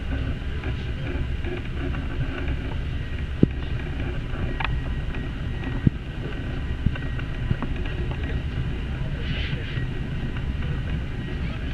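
Passenger train running on the rails: a steady low rumble with a few short, sharp knocks midway.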